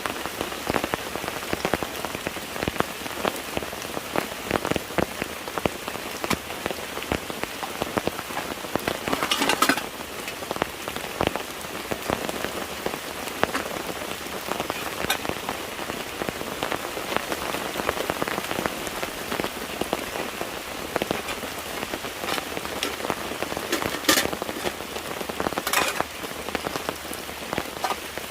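Steady rain falling, a dense patter of many drops striking a surface, with a few louder single drops or taps about a third of the way in and twice near the end.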